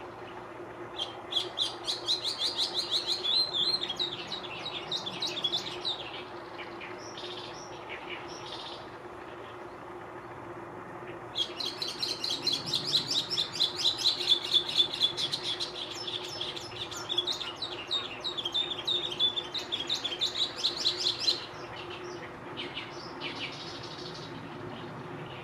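Chestnut-cheeked starling singing: two long bouts of rapid, chattering notes, the second about ten seconds long, with a few scattered notes between and after. A steady low hum runs underneath.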